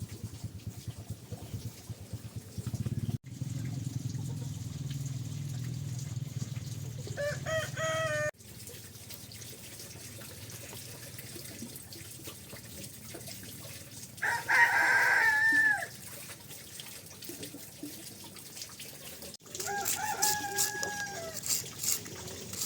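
Rooster crowing: a short call about seven seconds in, a loud, longer crow in the middle that drops in pitch at its end, and another crow near the end. Under the first third there is a low steady hum.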